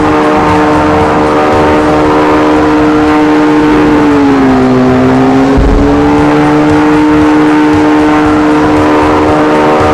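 An engine running hard at steady revs with a droning, held pitch. The pitch sags briefly about halfway through, then climbs back to the same level.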